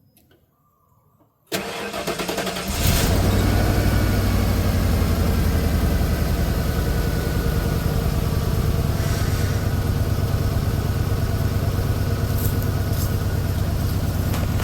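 Ford F-150 pickup engine cranked by its starter about a second and a half in. It catches after about a second and settles into a steady idle. The engine is missing a little and running rough, which the owner suspects comes from worn spark plugs.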